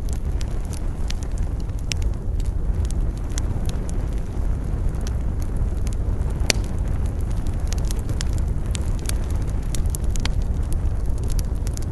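Wood campfire crackling, with irregular sharp pops and snaps over a steady low rumble of wind.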